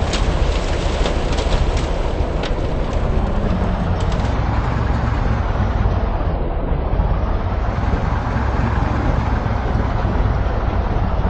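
Steady low rumble of a moving vehicle, with scattered sharp ticks in the first four seconds.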